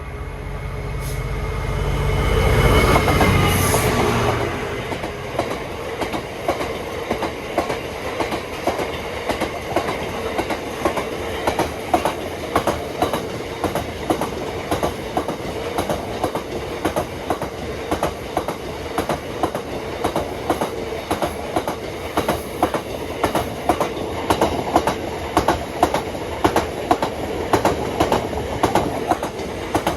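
Diesel-hauled freight train passing. The locomotive's engine swells to a loud peak in the first few seconds and fades, then a long string of wagons clatters past with rapid, regular wheel clicks over the rail joints.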